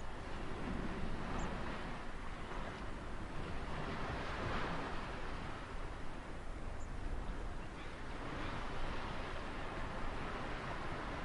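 Ocean surf: waves washing on a shore in a steady rushing hiss, swelling to a peak about four seconds in and then easing off.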